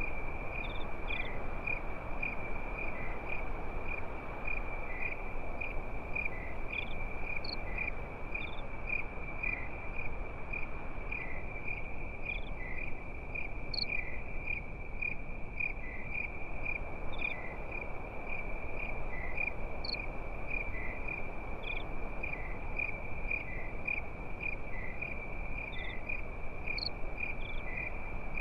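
Crickets chirping in a steady, fast-pulsing high trill, over the low, even crackle and hiss of a campfire, with a few faint separate ticks now and then.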